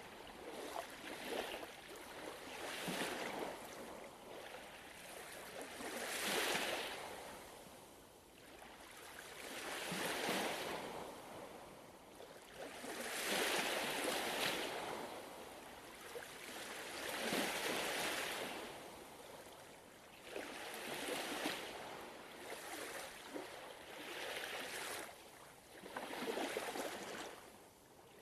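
Gentle ocean waves breaking and washing on a shore, one swell every three to four seconds.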